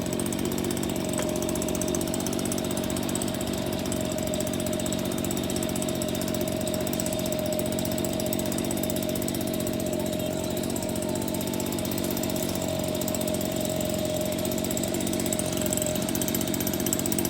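A small engine or motor running steadily, with a fast, even rumble and a held whine.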